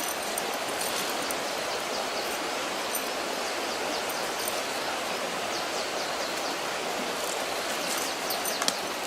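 Steady rushing noise, even throughout, with a few faint high chirps over it.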